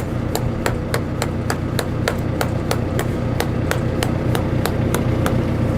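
Hammer tapping a steel belt lace pin through the lacing of a John Deere round baler belt, with quick, evenly spaced blows of about four a second, driving the new pin in.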